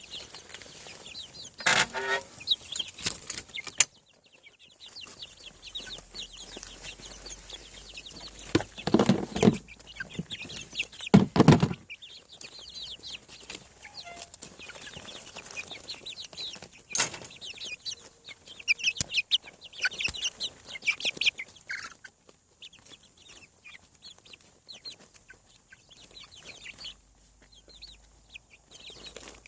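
Young chickens, about seven weeks old, peeping and clucking: a steady scatter of short high peeps, with a few louder, lower calls about two, nine and eleven seconds in.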